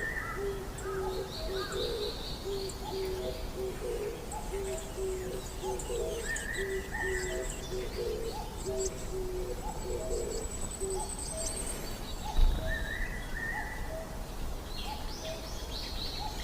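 Forest birdsong: a low hooting note repeated steadily, about one to two a second, under higher whistled phrases and thin high chirps of small birds. A single dull thump about twelve seconds in.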